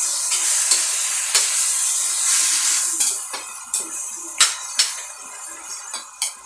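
Beef ribs and vegetables sizzling in a metal wok while a metal utensil stirs them, knocking and scraping against the pan about ten times. The sizzle is loud for the first three seconds and then dies down.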